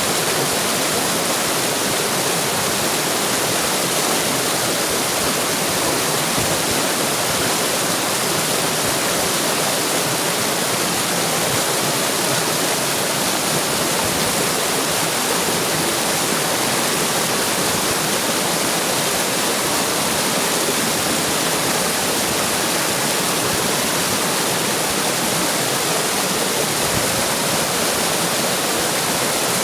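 Running water splashing steadily, a loud, even rush with no change in level.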